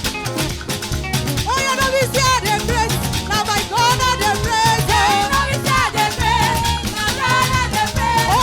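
Upbeat praise music from a choir and band: singing over drums, bass and percussion in a Latin-like groove. The voices come in about one and a half seconds in.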